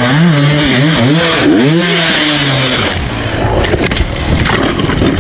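Off-road motorcycle engine revving up and down in quick repeated surges for about three seconds, then giving way to a rough, unpitched rumble.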